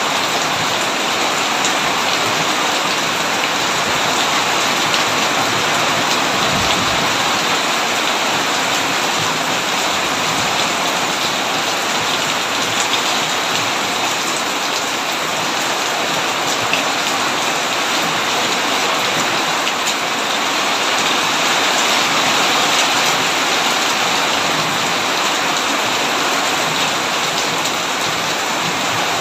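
Heavy rain falling steadily on a tin roof, a dense even hiss with scattered drops ticking on the metal.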